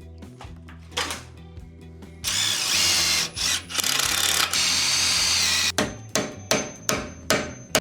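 Power drill running in bursts for about three and a half seconds, starting about two seconds in, its whine wavering in pitch, over background music with a steady beat.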